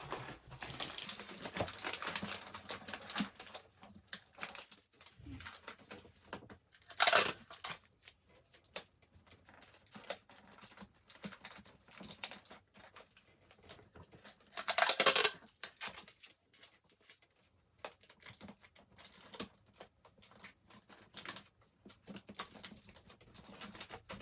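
Tissue paper crinkling and rustling as it is handled, in small irregular crackles, with two louder crumples, one about seven seconds in and one about fifteen seconds in.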